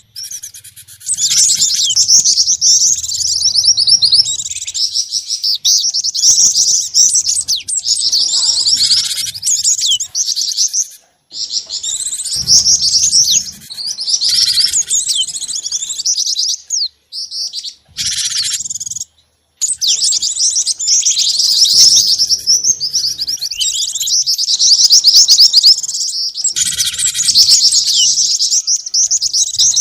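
Small songbirds chirping and calling in rapid, high-pitched trills, from a bird-lure recording that mixes glatik batu (cinereous tit), jingjing batu and mantenan calls. The calling runs nearly unbroken, with a few brief pauses.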